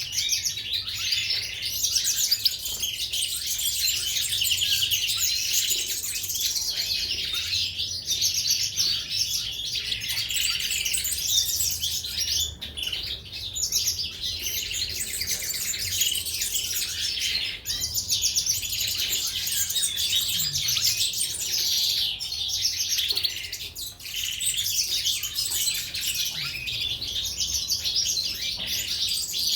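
Goldfinches and canaries chirping and singing continuously, many rapid overlapping trills and twitters.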